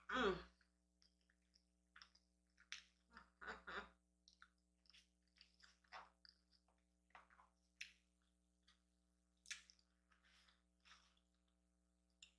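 Faint close-up chewing of a soft chorizo, egg and cheese breakfast burrito: scattered wet mouth smacks and clicks. There is a brief murmured hum at the start and another about three and a half seconds in.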